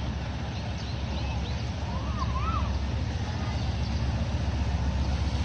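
Diesel train locomotive rumbling steadily with a fast low throb, slowly growing louder as the train draws nearer.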